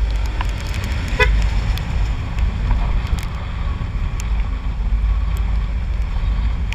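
Steady low wind buffeting and running noise while riding a Honda Click 125i scooter, picked up by a helmet-mounted camera's built-in mic, with scattered sharp ticks. About a second in, a vehicle horn gives one short toot.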